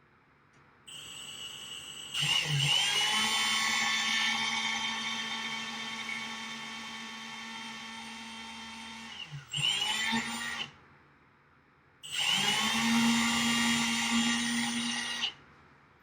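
Power drill running in three runs: a long one of about seven seconds, a short burst, then a run of about three seconds, each with a steady high motor whine.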